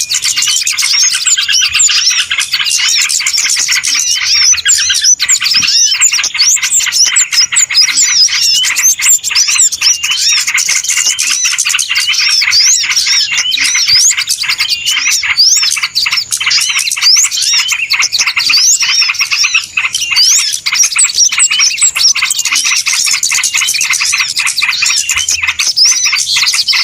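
A noisy chorus of many small birds chirping and twittering at once, quick short notes and whistles overlapping without a break. This is a bird-lure recording, played to draw small birds in.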